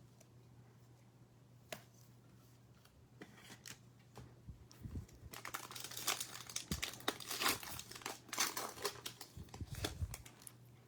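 Trading card pack wrapper being torn open and crinkled by hand, starting a few seconds in after a single click, a dense run of crackling up to the end.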